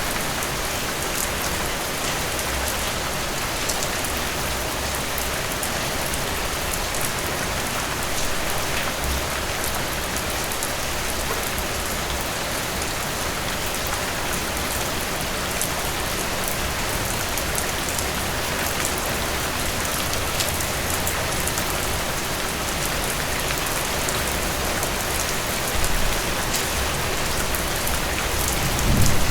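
Heavy rain falling steadily: a dense, even hiss with scattered sharper drop ticks. A low rumble of thunder swells in near the end.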